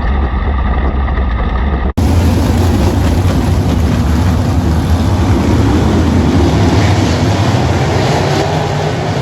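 Sprint car V8 engines running at racing speed. A sudden cut about two seconds in switches to a louder, rougher recording of the same engine noise.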